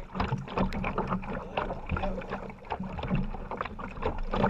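Heavy rain pattering on the kayaks and the water: a dense, irregular run of sharp drop hits, mixed with paddle splashes.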